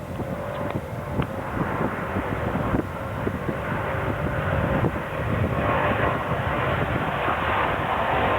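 Airliner engines running with a steady rushing noise that grows louder about halfway through, as the aircraft comes closer. A few faint clicks near the start.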